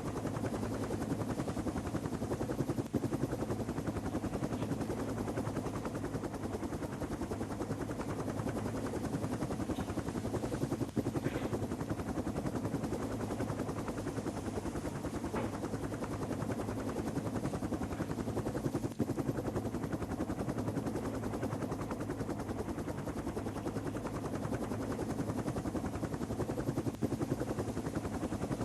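Helicopter rotor and engine running steadily, with a rapid, even chopping beat of the blades that neither rises nor fades.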